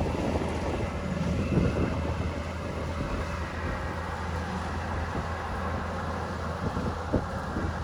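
Kubota DC-105X rice combine harvester running steadily, its engine and machinery giving a constant low hum over a broad rumble, with a few short knocks.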